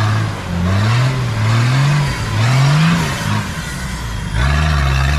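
Off-road 4x4 engine revving up and down in repeated surges, its pitch rising and falling about four times. Near the end it settles into a steadier, louder pull.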